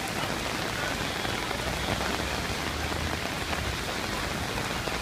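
Heavy rain pouring down steadily on the wet street and umbrellas.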